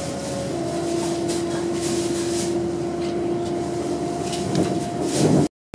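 Steady running noise inside the passenger cabin of a Hitachi Class 800 train travelling at speed, with a steady hum from the train's equipment that shifts to a lower pitch about half a second in. The sound swells briefly near the end and then cuts out abruptly.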